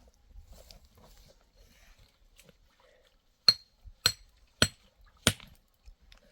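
Four sharp strikes of a hard object on another hard object, a little over half a second apart, each with a short bright clink.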